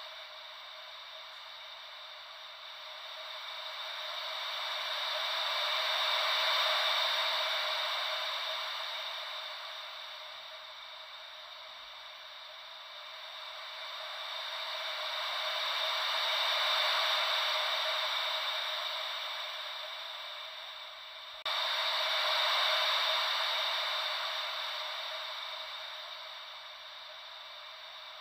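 Ocean-wave white noise: a soft hiss that swells and fades slowly, about every ten seconds, with a sudden jump in level about three quarters of the way through.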